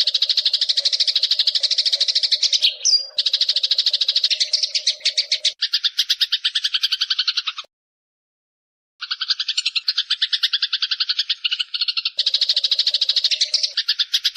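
Eurasian tree sparrow giving long runs of rapid chattering chips, fast and continuous. The chatter stops dead for about a second a little past the middle, then starts again.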